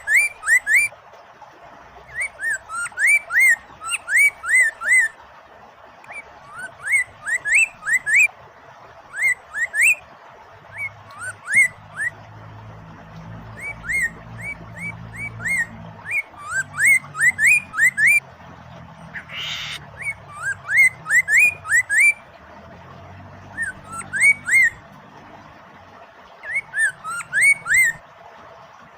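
Poksay mandarin laughingthrush singing in phrases of quick, rising whistled notes that come in runs of a few seconds with short pauses, over a steady background of running water. One short harsh call breaks in about two-thirds of the way through.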